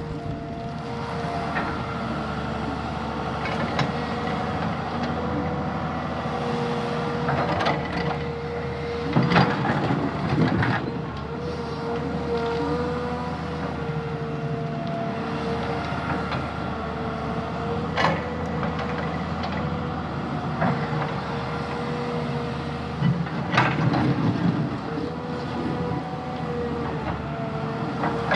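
Diesel engine of heavy earthmoving machinery running steadily, with a constant whine over the engine note and several sharp metallic clanks and knocks at irregular intervals.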